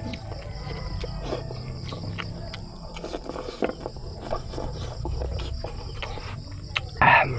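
Close-miked chewing and wet mouth sounds of someone eating chicken tinola with rice by hand, with scattered small smacks and clicks and one louder short noisy burst near the end.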